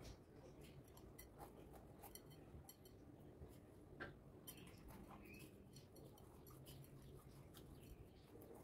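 Near silence, with faint scattered small clicks and light handling sounds over a low room hum.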